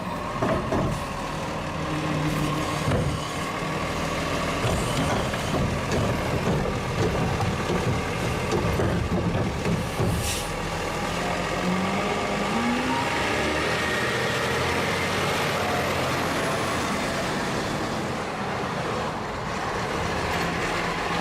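Heavy truck engine running steadily amid street noise, with a short rising pitch about twelve seconds in. The sound starts and stops abruptly.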